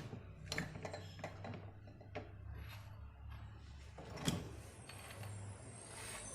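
Irregular clicks and knocks of tools and metal fan-motor parts being handled during disassembly of a pedestal fan, the loudest knock about four seconds in, over a steady low hum.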